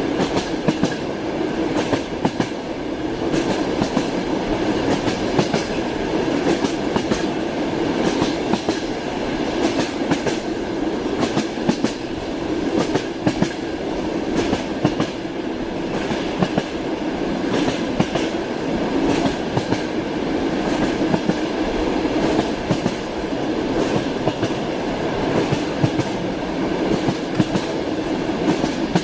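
Train wheels clacking over rail joints as the train runs steadily. Many sharp clicks sound over a continuous running noise.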